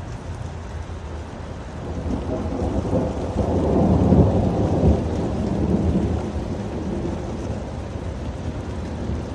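Thunder rumbling during a severe thunderstorm: a low roll builds about two seconds in, peaks around the middle and fades away, over steady rain.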